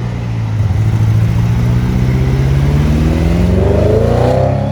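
Car engine running loud, then accelerating hard, its pitch climbing steeply through the second half.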